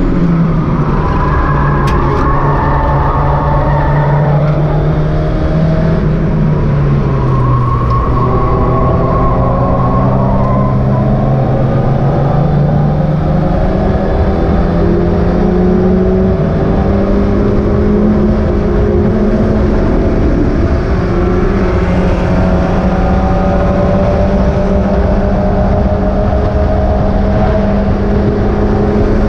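Mazda MX-5 race car's four-cylinder engine running hard at racing revs, its pitch dropping about seven seconds in and climbing back within a few seconds, then holding high and fairly steady.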